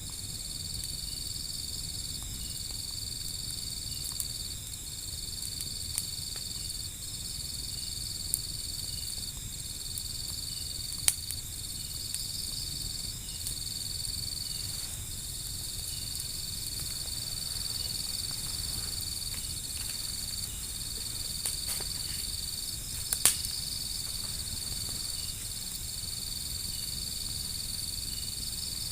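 Insects chirring in a steady high trill that breaks off briefly every second or so, with a handful of sharp pops from a wood fire, the loudest late on.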